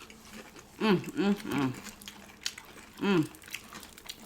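Short wordless vocal sounds: a few quick voiced syllables about a second in and another single one near three seconds, with faint mouth clicks of eating between.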